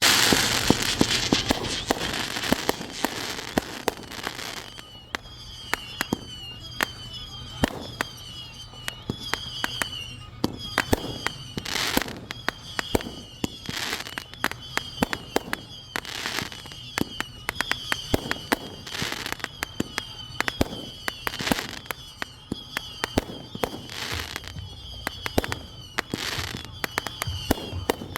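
Fireworks going off: a dense crackling barrage for the first few seconds, then scattered sharp pops and louder, echoing booms every couple of seconds. A repeated high wavering chirp sounds alongside them.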